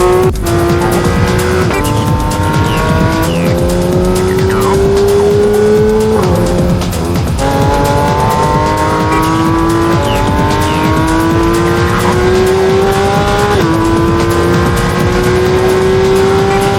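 Porsche 911 GT3's naturally aspirated 4.0-litre flat-six engine at high revs under hard acceleration, its pitch climbing steadily and dropping sharply at each of several upshifts.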